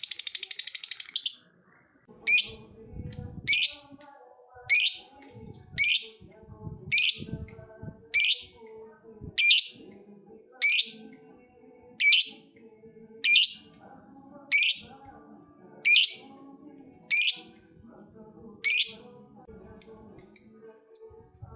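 Lovebird calling: a fast rattling chatter trill (ngekek) ends about a second in. After a short pause come loud, shrill single chirps, each falling in pitch, about one every second and a quarter. Near the end they quicken into shorter chirps about twice a second.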